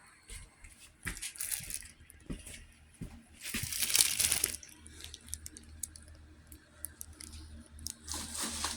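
Irregular rustling and crinkling with scattered light clicks and knocks, loudest in a long rustle about three and a half seconds in and another near the end.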